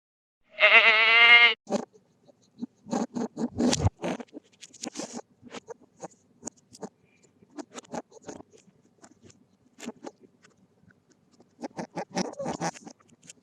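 One loud bleat, the call of a sheep or goat, about half a second in and lasting about a second. It is followed by scattered, irregular crunching and clicking that comes in clusters around four seconds in and again near the end.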